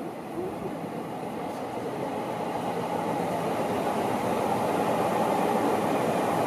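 Seibu Ikebukuro Line electric train approaching, its rolling rumble growing steadily louder.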